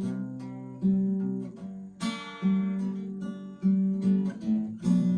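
Acoustic guitar playing an instrumental passage: chords struck about once a second and left to ring out and fade.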